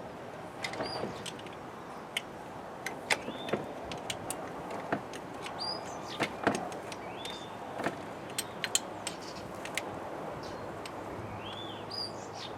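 Irregular clicks and knocks of hand tools at work on an engine as its bolts are undone, with a bird chirping a few times.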